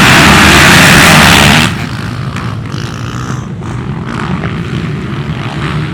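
Dirt bike engines running hard and loud at close range, as at a race start. A little under two seconds in, the sound drops off abruptly to a quieter, steady engine drone.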